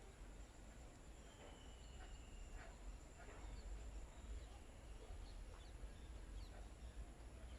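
Faint, sparse bird calls: one thin held whistle about a second and a half in, then a few short high chirps, over a steady high-pitched hum and a low background rumble.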